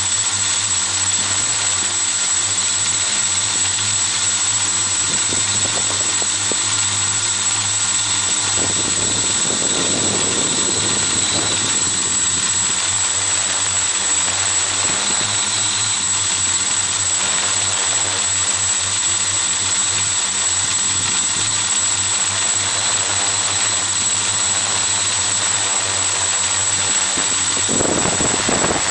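The four brushless motors and propellers of a Xaircraft X650 quadcopter running steadily in flight, a steady multi-toned hum picked up by a camera mounted on the craft itself. Short rushes of noise come through around ten seconds in and again near the end.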